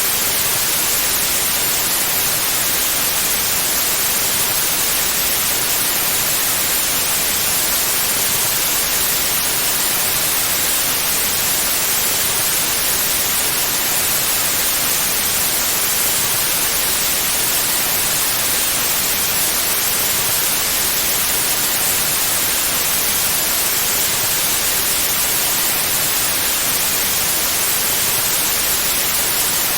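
Steady white noise: an even, continuous hiss that is brighter in the high end, with no changes or events.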